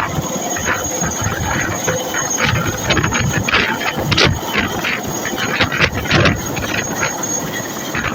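Helicopter running, loud and continuous, with a steady high-pitched turbine whine over the engine and rotor noise.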